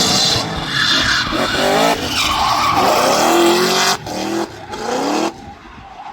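An engine revving up and down, with tyres skidding and squealing as a vehicle drifts. The sound drops off suddenly about four seconds in and again a second later.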